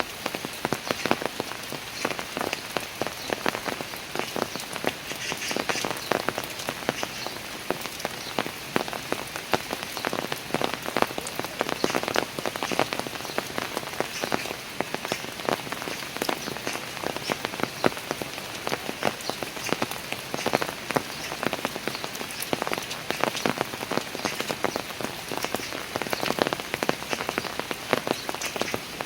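Steady rain falling on park stairs: a constant hiss with many distinct drop hits throughout.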